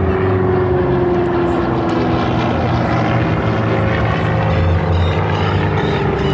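Piston propeller aircraft engine running steadily at high power as it flies past, its pitch sliding slowly downward.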